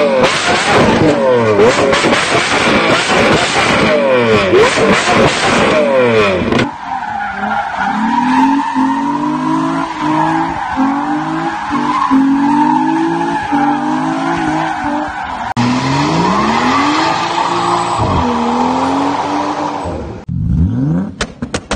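Performance car engines revving hard across several clips. First the engine note sweeps up and down repeatedly. Then the pitch climbs and drops sharply about once a second, as on quick gear changes. A last engine note rises and holds, breaks off briefly, and rises again near the end.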